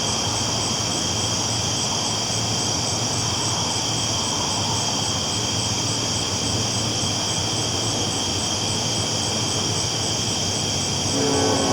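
Train rolling steadily on the tracks, an even rumble and hiss without breaks. In the last second a pitched sound with several tones joins and the level rises slightly.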